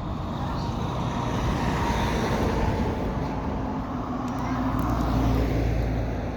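Road traffic noise: a vehicle driving past, its tyre and engine noise swelling and then easing off.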